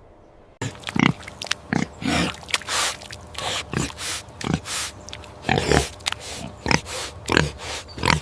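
An animal making a quick series of short, loud calls, about two a second, starting suddenly about half a second in.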